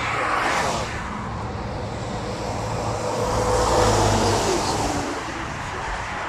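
Road traffic going past on a wet road, with tyre hiss. One vehicle passes loudest about four seconds in, with a steady low hum.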